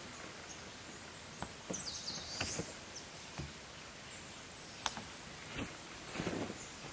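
Small birds chirping in high, short calls, one with a swooping call about two seconds in, over quiet outdoor ambience, with scattered light knocks and taps.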